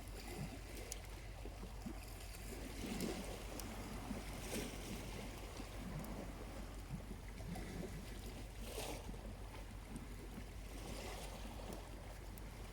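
Small waves washing gently onto a quiet beach in soft swells every few seconds, with a few faint crackles from a charcoal campfire.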